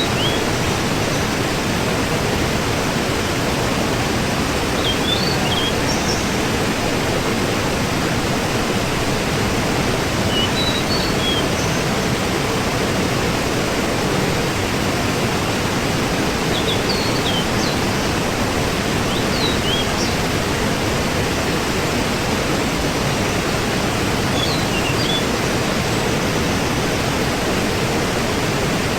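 Waterfall: a steady, unbroken rush of falling water, with short high chirps now and then.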